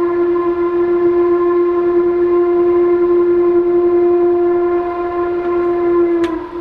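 Steam locomotive whistle sounding one long, steady blast of about six seconds, breaking off briefly near the end.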